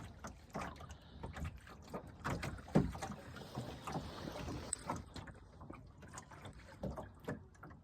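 Water lapping and slapping against the hull of a small sailing boat in light wind, in short irregular knocks, the loudest about three seconds in.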